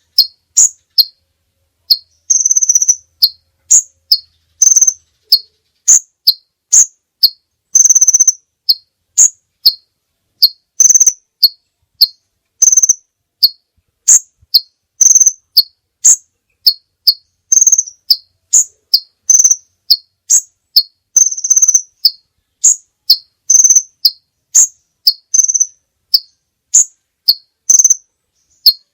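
A songbird chirping over and over, short high notes about two a second, with a slightly longer note every couple of seconds.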